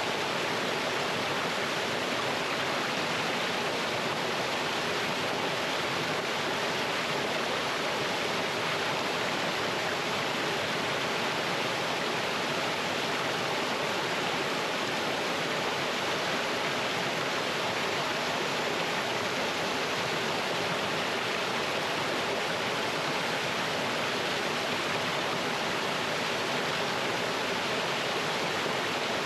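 Mountain stream water rushing and splashing over rocks in a small fall, a steady, even roar with no breaks.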